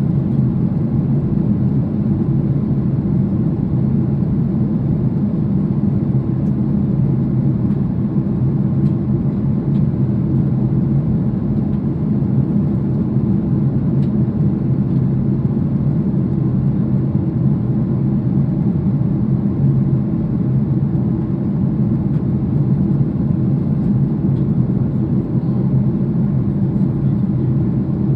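Steady in-flight cabin noise of a Boeing 737, heard from a window seat: a constant low rumble of engines and rushing air.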